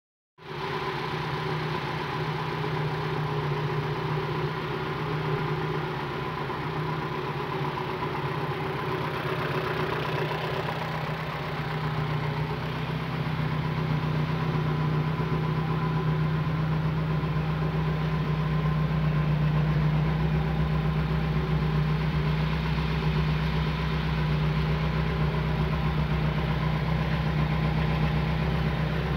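René Bonnet Missile's engine idling steadily, its deep low note growing stronger from about halfway through.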